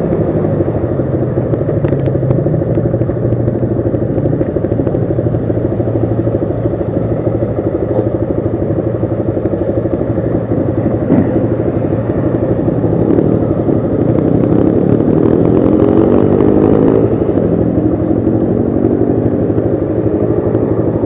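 Yamaha Lander 250's single-cylinder four-stroke engine running under way at a steady pace, its pitch climbing gradually over the last several seconds as it speeds up.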